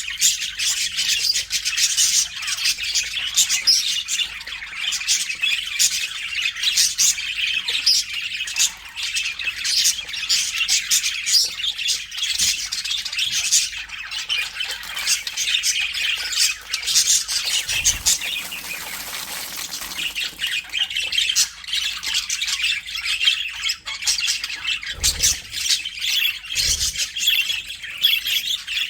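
A flock of budgerigars chattering, a dense run of short chirps and squawks from many birds calling over one another.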